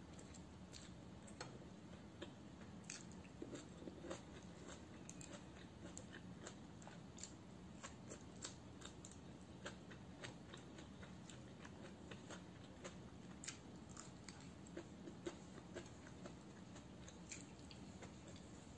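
Faint close-up chewing of rice and fried dried salted fish eaten by hand, with many small crunches and mouth clicks scattered throughout.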